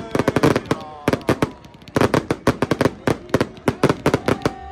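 Fireworks going off in rapid, irregular sharp cracks, several a second, thinning out for about a second midway before picking up again.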